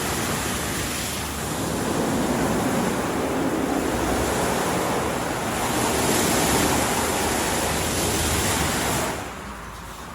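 WashTec SoftCare Pro Classic rollover car wash at work: a steady rushing like heavy water spray. It swells twice, then drops off sharply about nine seconds in.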